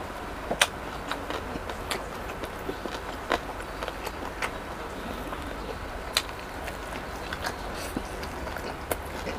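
Close-miked chewing of fried chicken, with scattered short, wet mouth clicks and smacks. A bite into a ketchup-dipped wing comes near the end.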